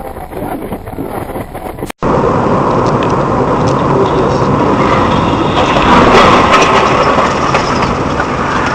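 Car engine and road noise, steady and without a clear impact. About two seconds in, a short dropout gives way to a louder, rushing stretch of the same kind of noise.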